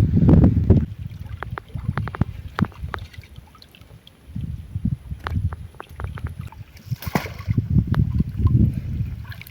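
River water sloshing and splashing as a hand net is worked through the shallows for prawns, heaviest at the start, with small knocks and a brief splash about seven seconds in.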